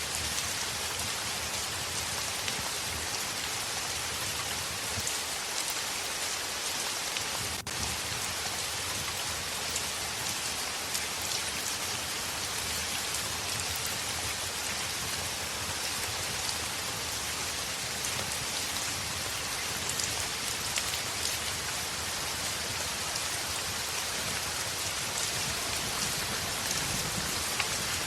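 Heavy rain falling steadily: a dense, even hiss with scattered small drop ticks, broken by a momentary dropout about seven and a half seconds in.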